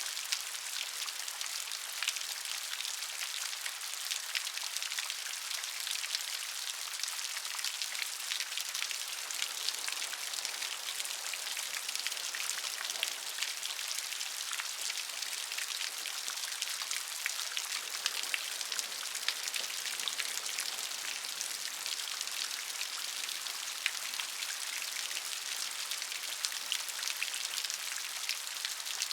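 Steady gentle rain: a soft, even hiss full of many small drop patters, with no thunder.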